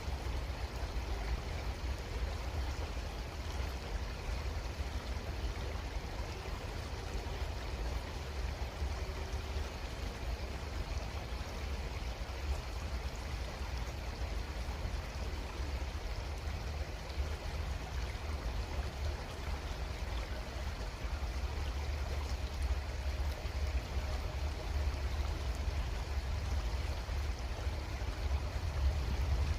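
Creek water flowing steadily, with an even rush and a strong low rumble underneath.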